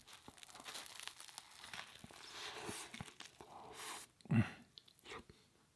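Close-miked bite into a Beyond Meat burger: the bun and fillings tear and crunch with crinkling and small crackles for about four seconds. A brief, louder low sound follows about four seconds in.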